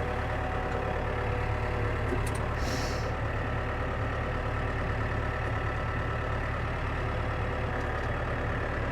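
Tractor diesel engine running steadily at low revs while the tractor drives gently in four-wheel drive, the engine still warming up.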